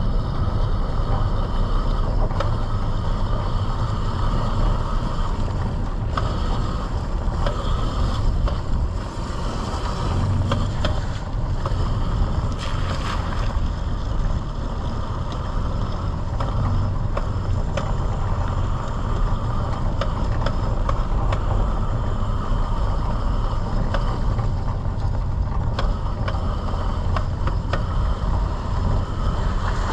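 Electric dirt bike being ridden on a trail: a steady rumble of wind and riding noise, with a few faint steady high tones and occasional short knocks.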